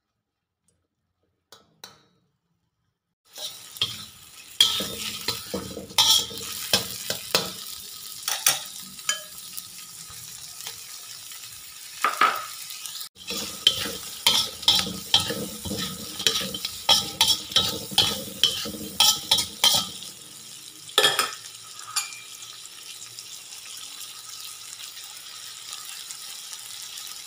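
After a few seconds of near silence, prawns sizzle in butter in a wok while a metal spoon stirs them, clanking and scraping against the pan. Near the end the stirring stops and only the steady sizzle goes on.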